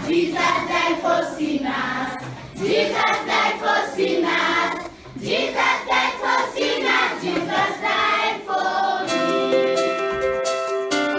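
A choir singing a song with no accompaniment worth noting. About nine seconds in, the singing gives way to instrumental music with held keyboard-like notes.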